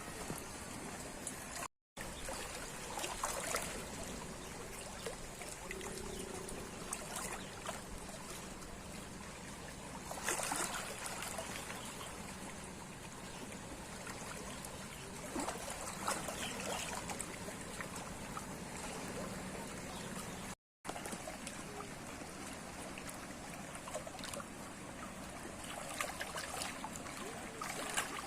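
Water trickling and lapping as a steady wash of noise, with scattered small clicks and knocks, broken twice by a brief dropout.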